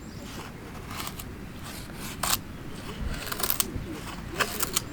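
Scattered light clicks and knocks of small objects being handled, the loudest a little over two seconds in and a quick run of them near the end, over low steady background noise.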